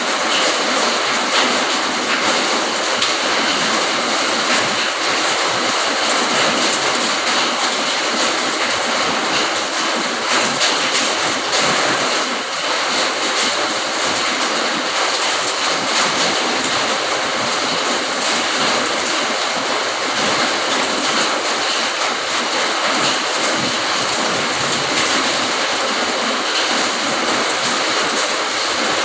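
Steady rain falling, a dense, even hiss that holds without change.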